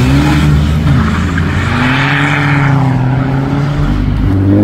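A car driving past with its engine held at steady revs, its tyre and road noise swelling and fading as it passes about two seconds in. Near the end another engine begins to rev up.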